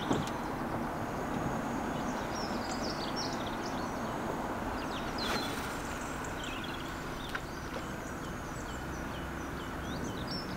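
Songbirds singing, many short high chirps and calls one after another, over a steady low background hiss; a single sharp tick about five seconds in.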